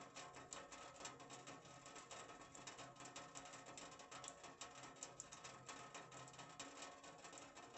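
Rain falling on a sheet-metal roof: a faint, dense, even patter of countless small drop hits.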